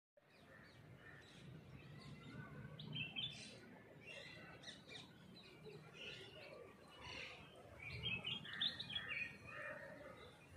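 Several small birds chirping and twittering in the trees, quick overlapping calls, over a faint low rumble.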